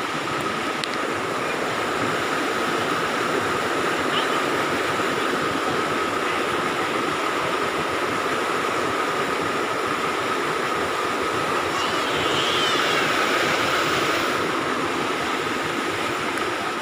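Water running and splashing steadily into trout-farm ponds, with a thin steady tone running through it; the water gets a little louder about twelve seconds in.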